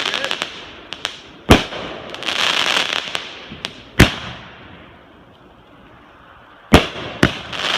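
Backyard consumer fireworks going off: sharp bangs about a second and a half in and again at four seconds, with crackling fizz between them, then a lull, and two bangs in quick succession near the end.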